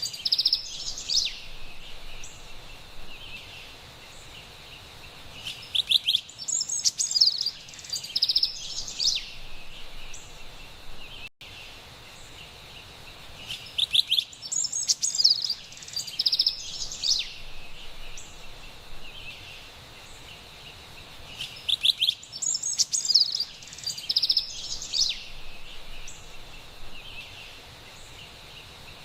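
Carolina wren singing: clusters of quick, bright notes that come about every eight seconds, with quieter stretches between, over a faint steady high hiss.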